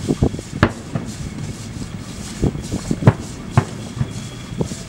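Aerial fireworks shells bursting: a string of irregular sharp bangs, the loudest about half a second in and around three seconds in.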